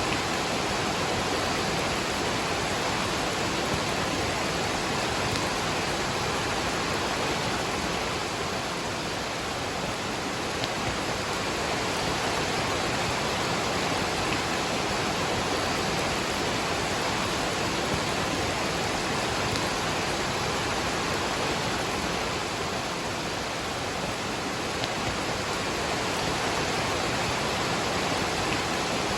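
Waterfall rushing steadily, mixed with falling rain, as an even, unbroken wash of water noise.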